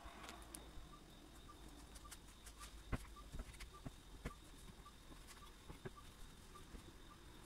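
Faint scattered clicks and light knocks of household objects being handled, the sharpest about three seconds in, over a faint regular ticking and hiss.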